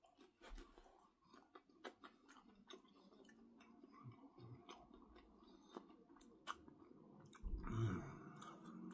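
Faint close-up chewing of a soft bread puff filled with macaroni and cheese, with small wet clicks and smacks scattered throughout. A short low hum of the voice comes near the end.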